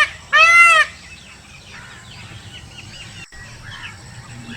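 A peacock calling: one loud, high, nasal call that rises and falls in pitch, lasting just under a second near the start. After it there are only faint background bird chirps.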